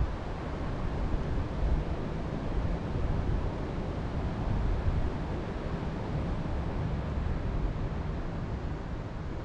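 Wind blowing over the microphone: a steady rushing noise with low, gusty buffeting that comes and goes.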